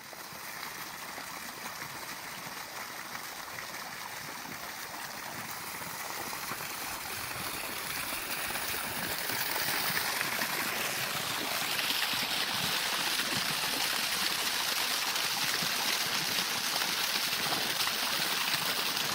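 Steady rush of running water like a stream, growing a little louder about halfway through.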